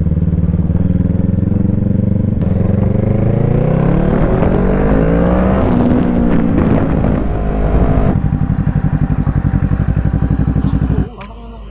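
Kawasaki Z650's parallel-twin engine pulling away, its pitch rising and then falling as it slows. It then idles with a steady throb before the sound cuts off abruptly near the end.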